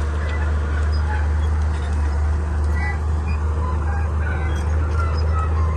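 Komatsu D31P bulldozer's diesel engine running steadily, with a constant low hum and many short high squeaks scattered throughout.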